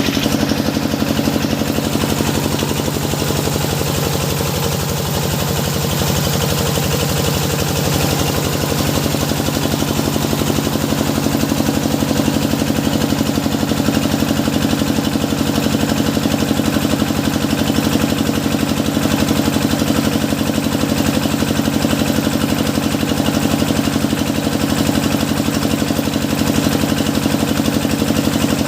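Engine of a hydraulic deep-well drilling rig running steadily.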